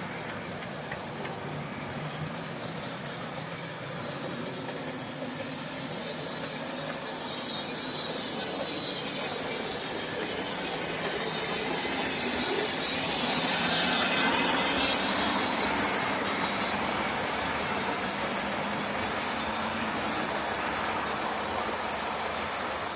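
OO gauge model train, a Class 25 diesel model hauling open wagons, running along the track with a steady motor and wheel noise. It grows louder as it passes closest, a little over halfway through, then fades.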